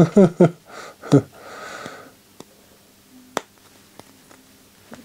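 Small plastic parts of a CD changer mechanism knocking and clicking as a cylinder is pressed and worked into its housing. There is a cluster of quick knocks in the first second, then a breathy exhale, then a few isolated clicks.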